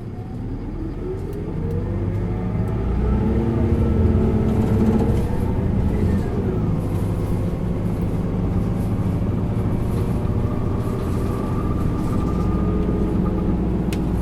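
Isuzu Erga LV290N1 city bus's four-cylinder diesel engine pulling hard under acceleration, heard from inside the bus: the engine note rises and grows louder for about five seconds, falls away about six seconds in as the transmission shifts up, then holds a steady note under load with a high whine.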